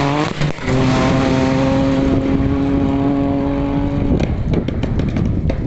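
Rally car engine at full throttle, its note climbing and then, after a short break about half a second in, held at one steady pitch for about three seconds. The engine cuts off suddenly about four seconds in, and a scatter of sharp clicks follows.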